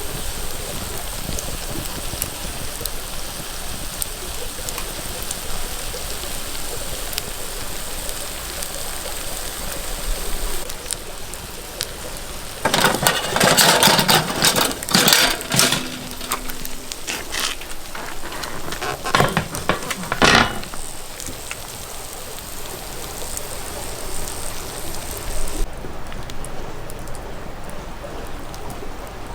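Wood fire crackling steadily in a fire pit, with a run of louder sudden handling and clattering noises in the middle.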